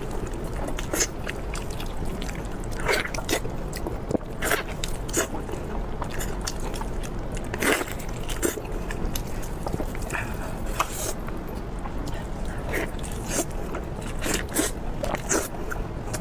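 Close-miked eating: irregular crisp crunches and wet chewing clicks, several a second, with a few louder bites. A steady low hum runs underneath.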